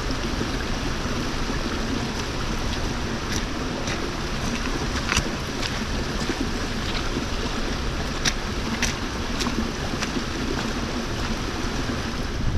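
Steady rushing of a river and waterfall, an even roar with no break, with a few brief sharp clicks over it.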